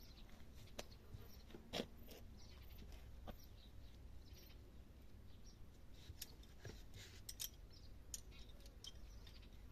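Near silence: a low background hum with a few faint, scattered clicks and rustles, the clearest a little under two seconds in.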